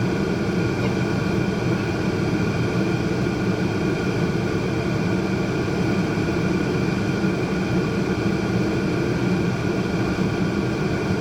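Steady vehicle-cabin noise: a constant low rumble and hum that holds the same level throughout, with no other event standing out.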